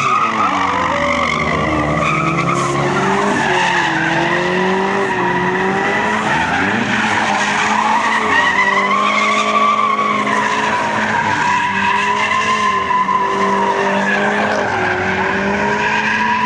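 Cars doing donuts: tyres squeal continuously, the squeal wavering up and down in pitch, over engines revving.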